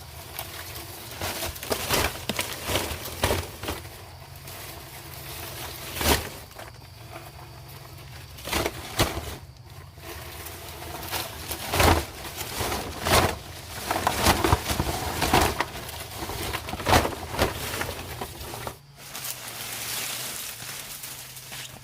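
A run of irregular sharp knocks and scrapes, bunched closer together in the second half, over a faint steady low hum.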